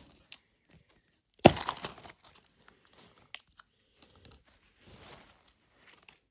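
Small plastic wrapper crinkling and tearing open, with one louder rip about a second and a half in, then scattered lighter crinkles.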